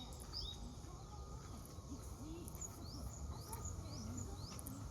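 A small bird calling repeatedly with short, high, rising chirps, about two or three a second, pausing briefly in the middle, over faint park background murmur.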